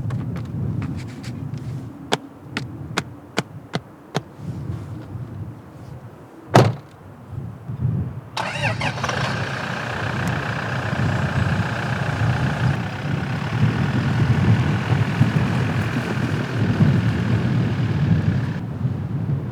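A series of sharp clicks, then a car door shutting with a single loud thud. A few seconds later a steady car running sound starts abruptly and carries on, over a low rumble of wind on the microphone.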